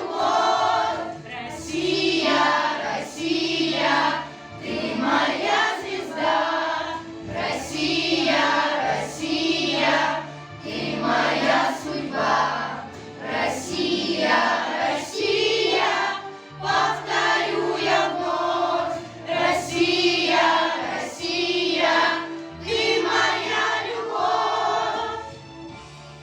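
Children's choir singing a song in unison over an instrumental backing track. The singing stops near the end.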